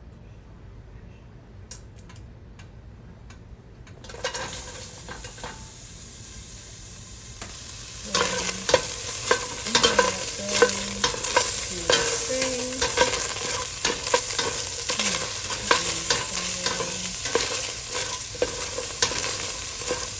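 Food frying in a hot cooking pot: a few light clicks, then sizzling starts about four seconds in and gets louder about eight seconds in, with a utensil scraping and knocking against the pot as it is stirred.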